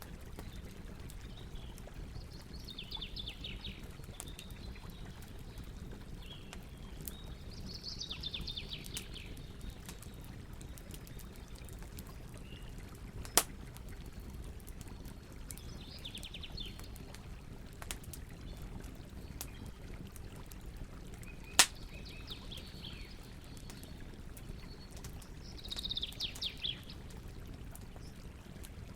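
Campfire crackling over a steady low rumble, with two loud sharp pops about a third and two-thirds of the way through. Birds twitter in short trills every few seconds.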